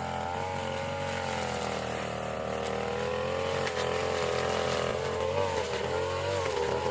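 Small petrol engine of a grass-cutting machine running at high speed, its pitch wavering up and down as the load on the blade changes.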